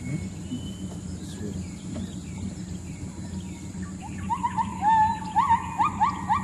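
Bornean gibbon calling: a series of rising whooping notes that start about four seconds in and come quicker and louder toward the end. A steady high-pitched drone runs underneath.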